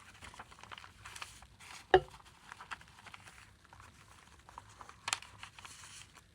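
Paper and card pages of a handmade junk journal rustling and crinkling as they are handled and unfolded. A sharp tap comes about two seconds in, and a shorter burst of rustling about five seconds in.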